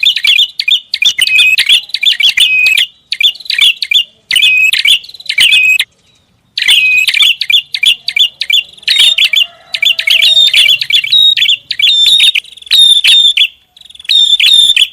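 Prinia lure call: a loud, rapid series of chirping phrases, each about a second long with brief gaps between them and a longer pause about six seconds in.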